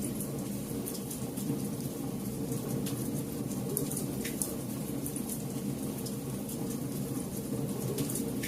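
Campfire burning: a steady low rush of flame with scattered sharp crackles and pops from the burning wood.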